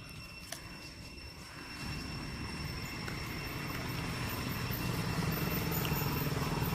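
A motor running with a low, evenly pulsing rumble that grows steadily louder, as if approaching.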